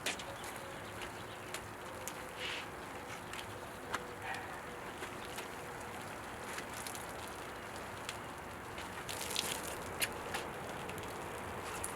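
Scattered light clicks, taps and rustles over a steady background hiss, with a brief cluster of brighter scraping or rustling sounds about nine seconds in.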